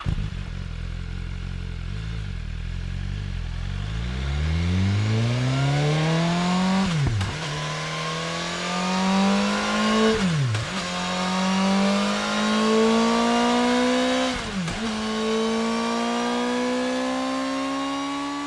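BMW S1000RR's 999cc inline-four engine accelerating hard through the gears. It pulls away from low revs, climbs in pitch, and three times the pitch drops sharply and climbs again as it shifts up.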